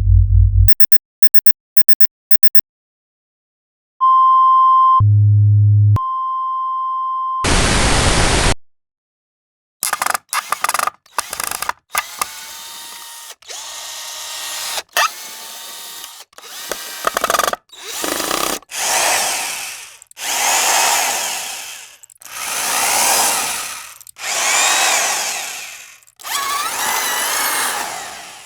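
A string of separate sound effects: a few quick clicks, a steady beep tone over a low buzz, and a short burst of noise. Then a power tool, a drill by its sound type, runs in repeated bursts of about two seconds, each swelling up and dying away with a whine that bends in pitch.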